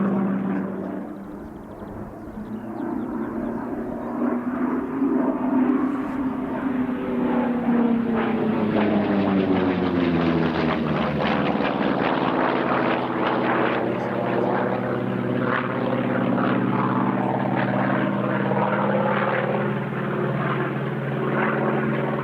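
Vought F4U Corsair's Pratt & Whitney R-2800 Double Wasp radial engine and propeller droning in flight. About ten seconds in, the pitch falls as the aircraft passes by, then settles into a steady drone.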